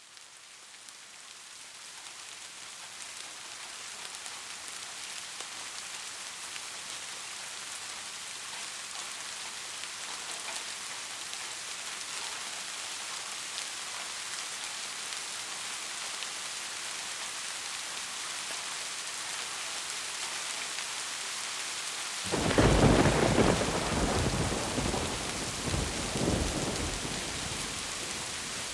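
Steady rain, fading up over the first few seconds. About three-quarters of the way through, a loud thunderclap breaks in and rolls on for several seconds with a few swells before fading back under the rain.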